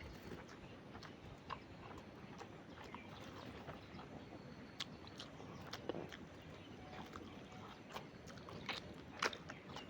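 Quiet eating sounds: chewing with scattered short mouth clicks and smacks, a few of them stronger near the end.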